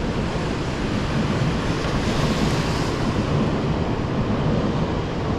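Strong wind and rain on a city street: a steady rushing noise with a low rumble of wind buffeting the microphone, swelling briefly a couple of seconds in.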